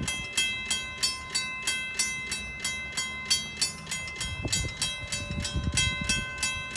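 Mechanical railroad crossing bell ringing steadily at about three strikes a second, each strike leaving a lingering ring. The crossing is activated with no train present: a crossing malfunction, which the railfan suspects is a sensor problem.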